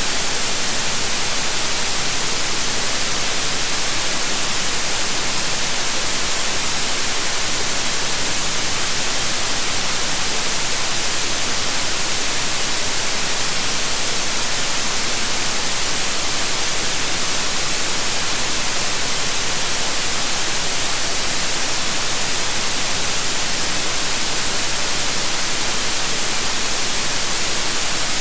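Steady electronically generated white noise: an even, unbroken hiss, brightest in the high frequencies, with no changes or events.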